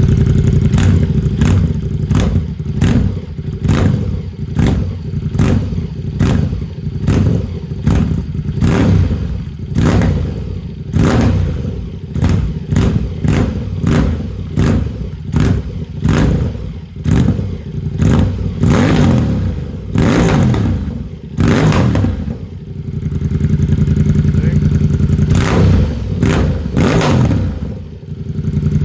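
Ducati XDiavel S's L-twin engine breathing through a hand-made exhaust, blipped on the throttle about once a second, each rev dropping back toward idle. It idles steadily for a few seconds near the end, then takes two more blips.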